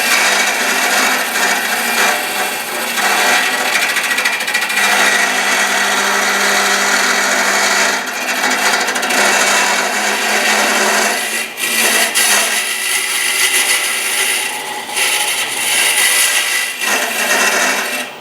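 Wood lathe spinning a walnut-and-lacewood urn while a homemade hollowing cutter, a sharpened drill bit in rectangular tubing, scrapes out the inside down to the bottom. Loud, continuous scraping over the lathe's steady hum, with a few short let-ups, stopping just at the end.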